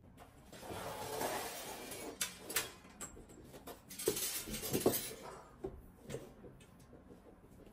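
Dishes and cutlery being handled: a soft rushing noise for the first couple of seconds, then a string of clinks and knocks, the loudest about four to five seconds in.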